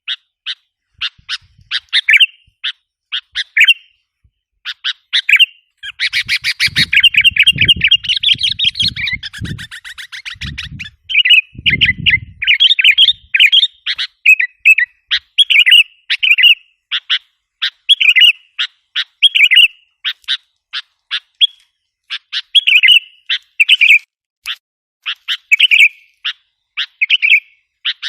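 Sooty-headed bulbul (kutilang) lure calls: rapid, sharp repeated chirping notes with an excited, dense chattering run about six seconds in, then separate call phrases.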